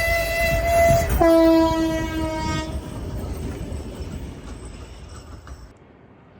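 A 2M62 twin-section diesel locomotive sounds its horn: a higher note for about a second, then a lower note for about a second and a half. Running noise with a rail clatter follows and fades until it cuts off near the end.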